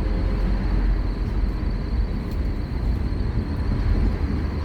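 Scania K230UB Omnilink bus under way, heard from on board: a steady low diesel engine rumble mixed with road noise, holding even with no gear change or braking.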